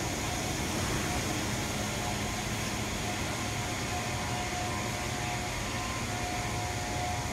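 MTR Disneyland Resort Line train pulling slowly into the station platform, giving a steady hum and rush of running gear and equipment. A faint steady tone comes and goes in the second half.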